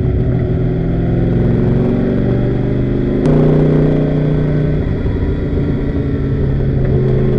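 Daytona Coupe race car's engine pulling under acceleration, its pitch climbing, then a sharp click and a sudden change in engine note about three seconds in as a gear change is made, after which it pulls again.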